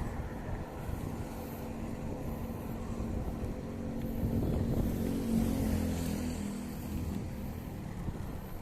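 Wind rumbling on the phone microphone while cycling, with a motor vehicle's engine hum that swells to its loudest a little past the middle and then fades, as it passes.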